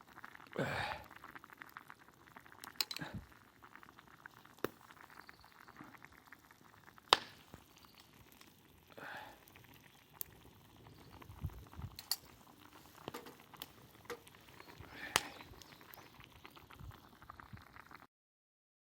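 Pot of offal stew (motsu-ni) bubbling over a campfire, with scattered sharp clicks and a few short hissing swells.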